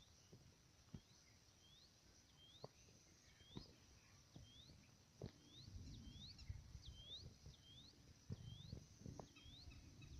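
A bird calling over and over, faintly, in short swooping chirps at about two a second, over a steady high hiss. From about halfway a low rumble joins in, with a few light knocks.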